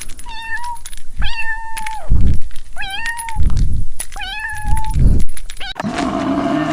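A cat meowing four times, each meow high and clear with a short rise in pitch, with low thumps between the calls. Near the end it cuts to a different, lower-pitched sound.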